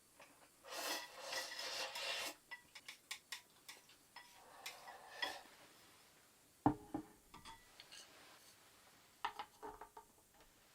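Utensil scraping against a dish while the last of a meal is eaten up: two scrapes, scattered small clinks, and a sharper knock about two-thirds in.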